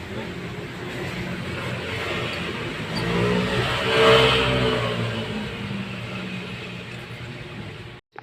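Yamaha XMAX 300 scooter's single-cylinder engine running, revved up once about four seconds in and falling back, just after its cleaned starter has brought it to life. The sound cuts out briefly near the end.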